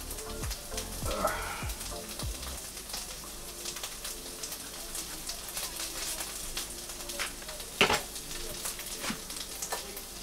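Curry paste and ginger puree frying in a pan: a steady sizzle with frequent small crackles. A sharp knock about eight seconds in is the loudest sound.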